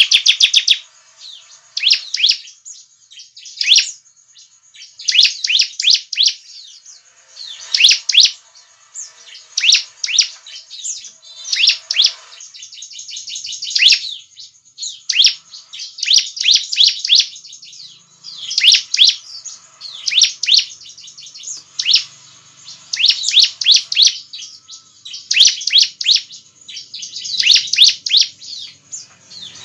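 Bar-winged prinia (ciblek) singing vigorously: loud, rapid bursts of high, sharp chirping notes, repeated every second or two.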